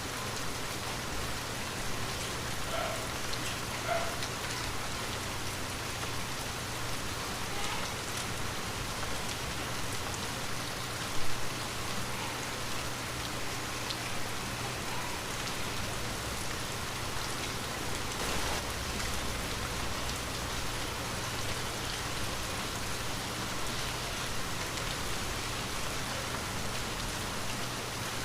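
Light rain falling steadily, with scattered individual drops pattering on surfaces. About eleven seconds in there is a single sharper, louder tap.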